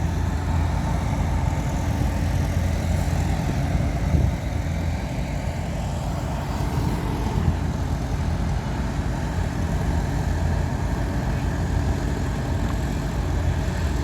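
Heavy diesel engine of earthmoving equipment running steadily, a low, even drone that barely changes in pitch.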